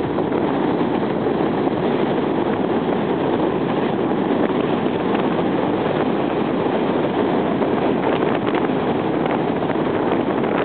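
Strong wind blowing over the microphone: a steady, unbroken rushing noise.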